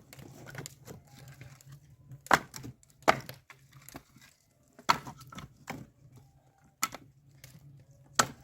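Axe chopping firewood into kindling, the wood standing inside a tyre: about seven sharp strikes at irregular intervals, the loudest a little over two, three, five and eight seconds in.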